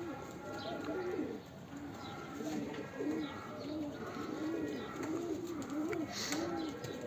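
Domestic pigeons cooing: a run of repeated rising-and-falling coos, coming faster and closer together from about halfway through.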